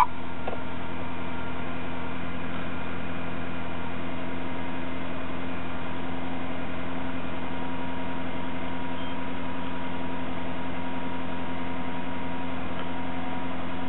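Nissan Serena's QR20DE 2.0-litre four-cylinder engine idling steadily after start-up, an even hum with no change in pitch.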